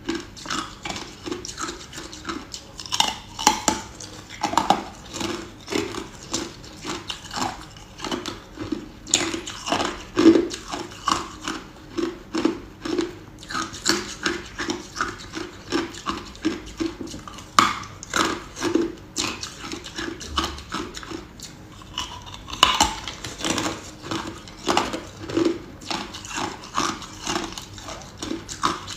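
Ice being chewed close to the microphone: a steady run of crisp crunches, about two a second, with a few louder bites now and then.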